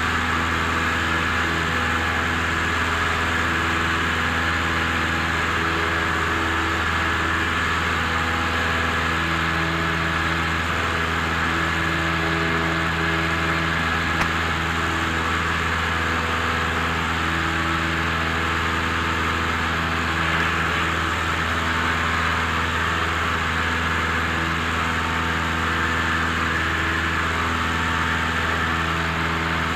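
Cabin noise of a Cessna 172M in flight: the Lycoming O-320 four-cylinder engine and propeller running as a steady, even drone at climb power just after takeoff.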